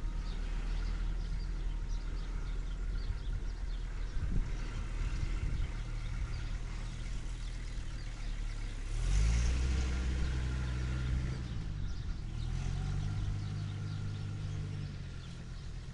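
Farm tractor engine running under load. It revs up about nine seconds in, drops back, and revs up again a few seconds later.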